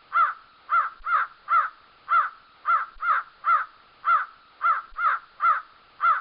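Crow cawing: a long, even run of short caws, about two a second, with no pause.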